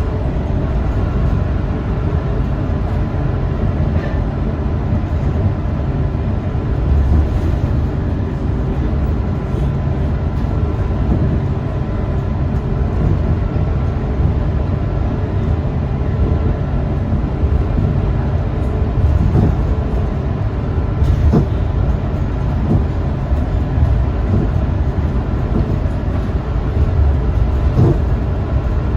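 Scania K230UB single-deck bus in motion, heard from inside: a steady deep rumble of its rear-mounted diesel engine and the road, with a faint steady high tone over it.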